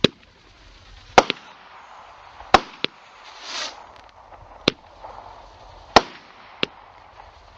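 Small consumer firework cake firing: about eight sharp bangs at uneven intervals, some in quick pairs, with a short hiss about three and a half seconds in.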